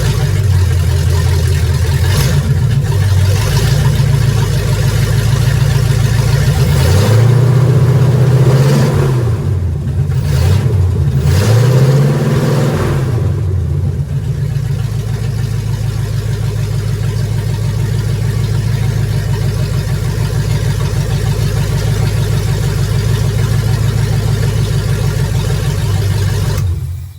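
Classic Ford truck engine idling, revved up and back down twice about a third of the way in, then settling to a steady idle; it is running better with its fuel line freshly replaced. The sound cuts off abruptly near the end.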